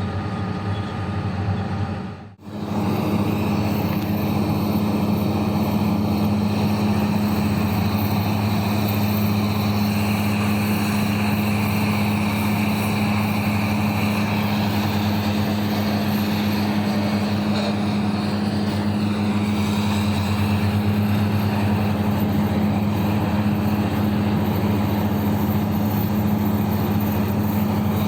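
Big diesel engines of heavy mining machinery running steadily, an even low drone that briefly cuts out about two seconds in.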